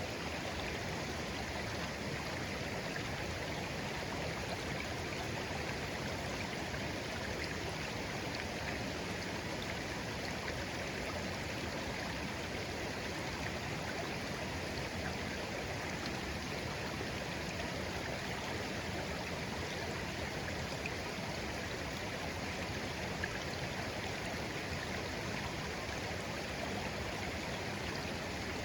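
Shallow stream flowing steadily over stones, an even babbling and burbling with no change in level.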